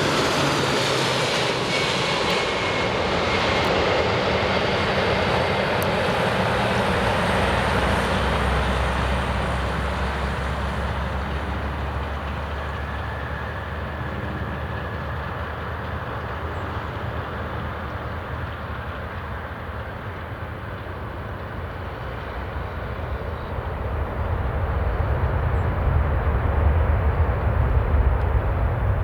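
Boeing 747 jet engines passing close on landing: loud at first with a falling whine, then dying away over about ten seconds, before a deep rumble builds in the last few seconds.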